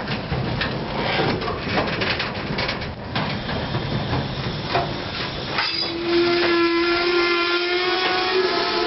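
Freight train of tank cars passing close by, its wheels clacking steadily over the rail joints. About six seconds in, a locomotive horn sounds one held, steady chord for about three seconds.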